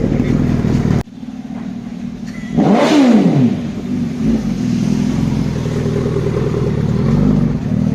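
Suzuki Hayabusa superbike engine running, cut off abruptly about a second in. A sharp throttle rev rises and falls near three seconds, then the engine runs steadily again.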